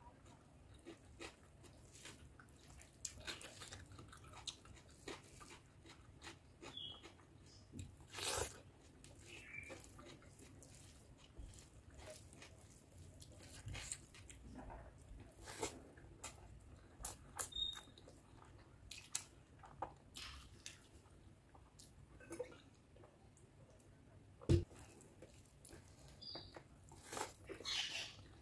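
Close-miked eating sounds of a person eating rice and curry by hand: faint, irregular wet mouth clicks and smacks of chewing, with the soft squish of fingers mixing rice into the curry. One sharper, louder click comes late on.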